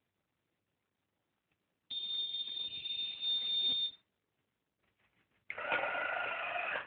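Electronic buzzer on a train-crossing model sounds a steady high beep for about two seconds, signalling a train's arrival. A harsher, rougher sound follows about a second and a half later.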